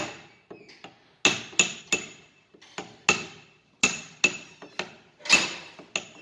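Hammer striking a chisel to stake the lock of a steering tie rod on a Toyota Prius steering rack: a series of about a dozen uneven, sharp metal blows, some hard with a short ringing after them, some light taps.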